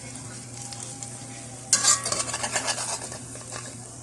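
Beef loaf and egg scramble sizzling in a frying pan, then a bit under halfway through a spatula stirring and scraping the pan loudly for a second or so.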